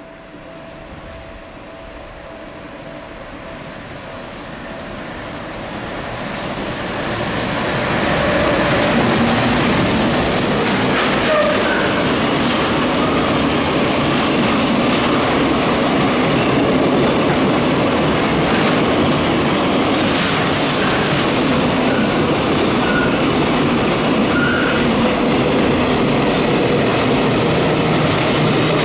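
EF210 electric locomotive hauling a long container freight train, approaching and rolling past. The rumble swells over the first eight seconds, then holds steady as the wagons' wheels clatter over the rail joints, with a few brief wheel squeals.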